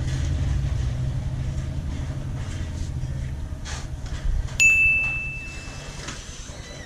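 A low rumble, then about four and a half seconds in a single sharp metallic clang that rings on as one clear high tone, fading over about a second and a half, like a piece of metal being struck or set down hard.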